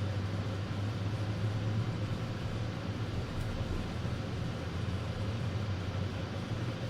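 Steady road and engine noise heard inside a moving car's cabin: a low, even drone under a constant hiss.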